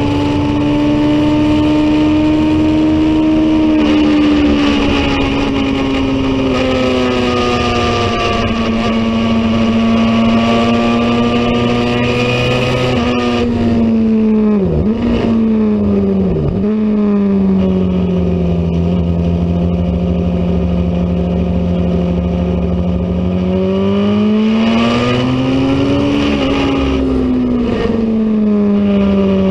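Racing motorcycle engine running hard at high revs. Its pitch steps down a few times, dips sharply twice about halfway through, then climbs and drops again near the end, as in gear changes and throttle changes through corners.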